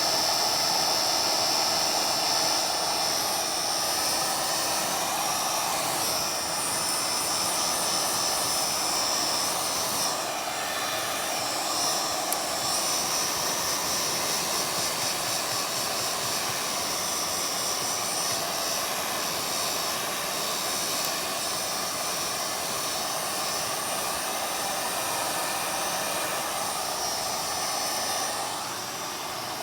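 Low-temperature hair dryer blowing steadily: a rushing air noise with a constant high whine. It gets a little quieter near the end.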